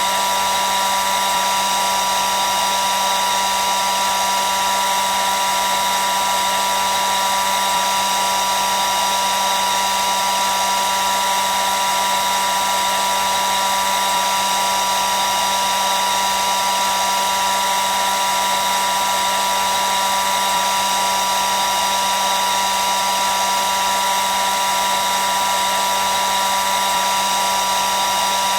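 Hair dryer running steadily: a constant even blowing noise with a steady high whine from the motor, unchanging throughout.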